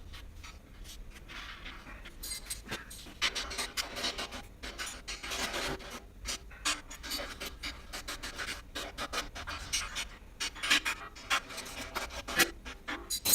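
Hands sorting and handling small bolts and steel parts from the motorcycle dolly's hardware: irregular clicks, light knocks and scraping rustles, busier from about two seconds in.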